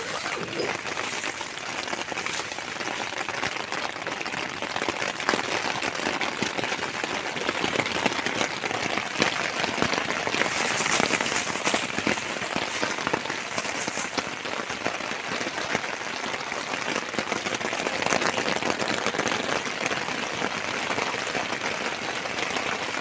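Heavy rain pattering steadily on the tent and the plastic sheeting over it, heard from inside the tent as a dense hiss of countless small taps.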